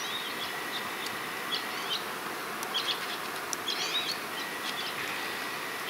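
Steady rush of a river, with short bird chirps scattered through it.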